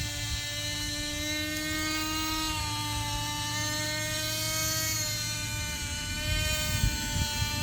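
Small nitro glow engine of a Lite Machines RC helicopter running at flight throttle as it hovers, a steady high-pitched drone whose pitch dips and rises slightly. The engine is sluggish on the throttle and, in the owner's view, needs adjusting.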